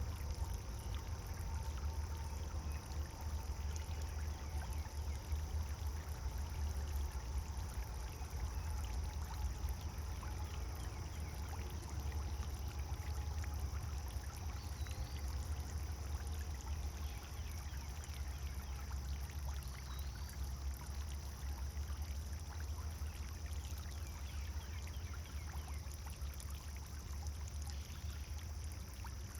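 Pond fountain water pouring and splashing steadily, with a strong low rumble underneath. Two faint short chirps sound about halfway through.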